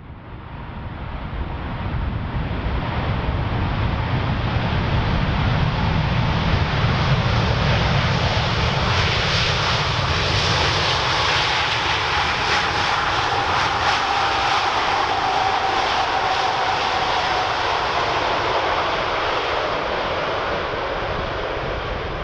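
Jet airliner engines, a loud steady roar that builds over the first few seconds and then holds. Through the middle a thin whine slides slowly down in pitch, as the aircraft passes.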